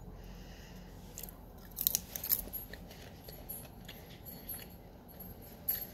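A person chewing buttered popcorn with a gummy fruit snack: short crunches, a cluster of them about two seconds in, then a few fainter ones.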